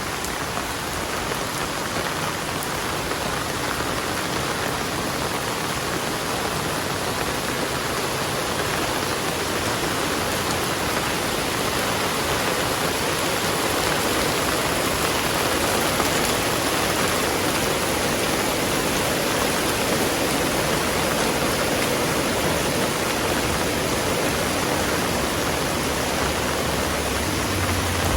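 Heavy rain falling: a dense, steady hiss of downpour that grows slightly louder about halfway through.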